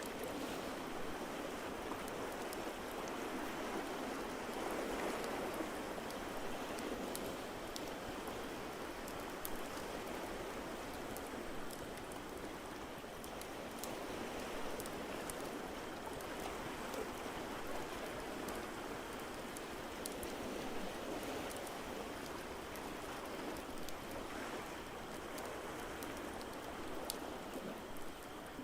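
Ambience mix of ocean waves washing in a steady wash that swells slowly every several seconds, with the light, scattered pops of a crackling fireplace.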